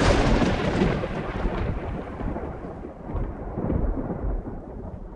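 Thunderclap that starts with a sharp crackle, then a long rolling rumble that slowly fades.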